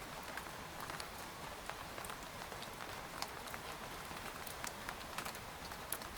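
Rain falling on a tent: a steady hiss of rainfall with scattered, irregular taps of single drops hitting the fabric.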